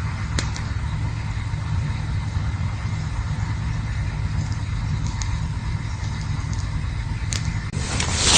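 Campfire burning: a steady low rumble and hiss with a few sharp crackles, swelling to a louder rush of noise near the end.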